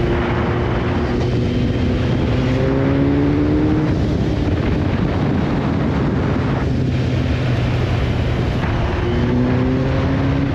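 Vehicle engine running steadily while travelling along a road, with a rush of wind and road noise; the engine note rises twice, about two seconds in and again near the end.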